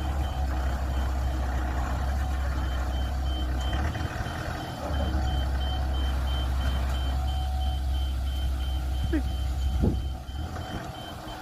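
A work machine's engine running steadily while its reversing alarm beeps rapidly and evenly; the machine is backing up. The beeping stops near the end, with a couple of short squeals just before.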